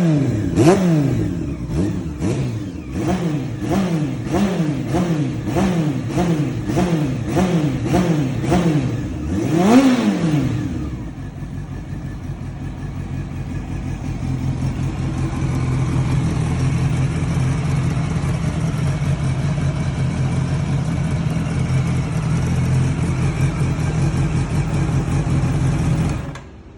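Honda CB400SF Spec2's inline-four engine breathing through a new aftermarket muffler, blipped in quick short revs about one and a half times a second, then one bigger rev about ten seconds in. It then settles to a steady idle, which cuts off suddenly near the end.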